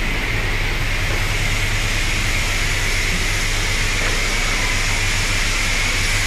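Self-service car wash high-pressure wand spraying water onto a car: a steady hiss over the constant low hum of the pump motor.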